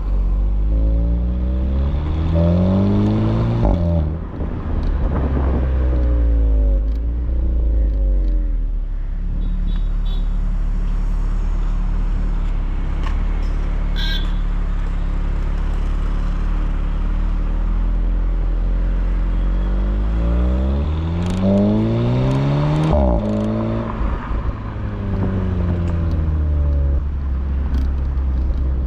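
Volkswagen Polo GTI's 1.8 TSI turbocharged four-cylinder engine and exhaust pulling through the gears. The pitch rises, drops at an upshift and rises again, then falls away. A long steady cruise follows, then another pull with a shift a few seconds before the end.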